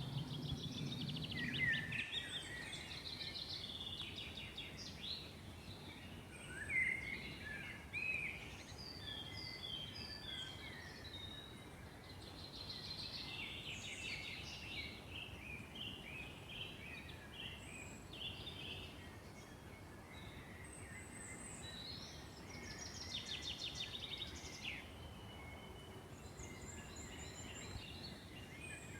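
Several songbirds singing and calling at once: overlapping chirps, warbles and rapid trills, over faint steady background noise. A low rumble underneath stops about two seconds in.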